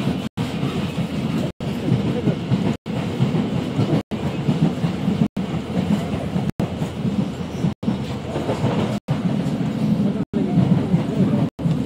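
DEMU passenger train running along the track: a steady low rumble. The audio cuts out briefly about every second and a quarter.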